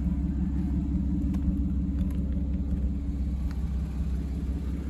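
1997 Toyota Supra Twin Turbo's 2JZ-GTE twin-turbo inline-six idling steadily, a low even rumble.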